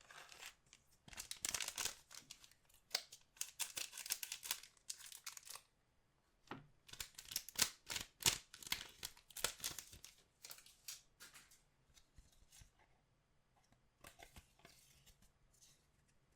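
Crinkly foil trading-card pack wrappers being torn open and crumpled by hand, in two long spells of ripping and rustling, then quieter handling near the end.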